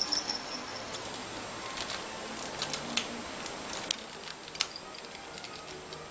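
Scattered small clicks and taps, a few quick ones together then single ones, from a budgie working at the toys and perches of its play gym.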